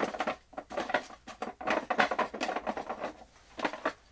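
Scrapbook paper rustling, with light irregular clicks and taps, as paper pieces are handled on a desk.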